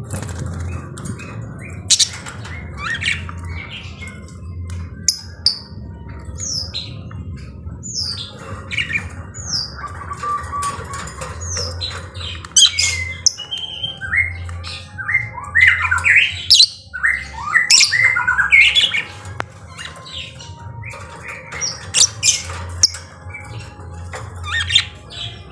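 Lovebirds chattering, with many short, shrill squawks and chirps coming thick and fast, busiest in the middle stretch, over a steady low hum.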